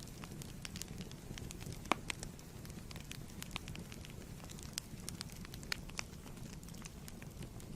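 Wood fire burning in a fireplace, crackling and popping irregularly over a low steady rumble, with one sharper pop a little under two seconds in.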